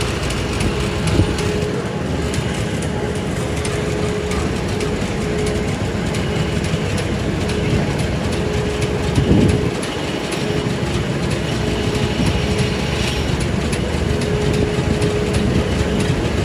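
Steady street traffic noise with vehicle engines running, and a brief louder swell about nine seconds in.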